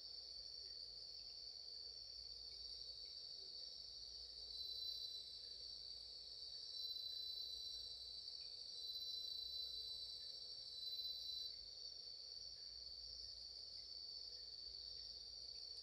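A steady chorus of crickets chirring. Near the middle a second, louder insect trill joins in four stretches of a second or so each.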